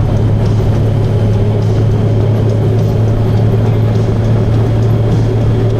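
Motorcycle cruising at a steady speed: a constant low engine drone mixed with wind and road noise, with no change in pitch or level.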